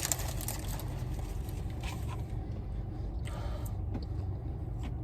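Low steady hum inside a car, with a few faint rustles of food wrapping.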